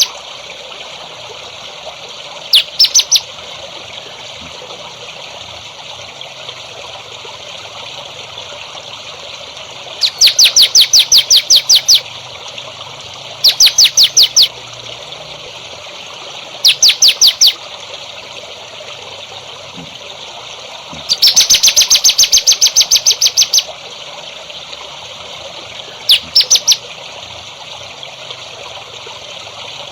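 A songbird calling in six bouts of rapid, evenly repeated high notes, the longest lasting about two seconds, over a steady trickle of running water.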